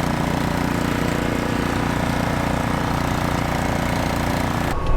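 Ariens snowblower's engine running steadily under a steady hiss. The sound breaks off abruptly just before the end.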